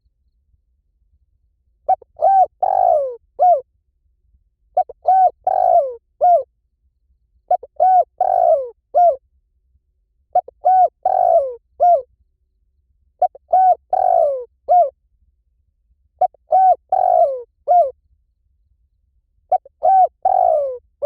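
Spotted dove cooing: seven repeated call phrases about three seconds apart. Each phrase has two short coos, a longer rolled coo that falls in pitch, and a short closing coo.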